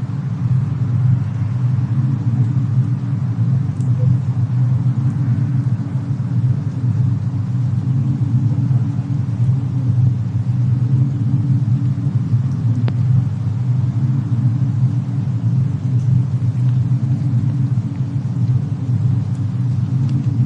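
Steady low rumble of a fireplace-and-snowstorm ambience, with a few faint, sparse fire crackles.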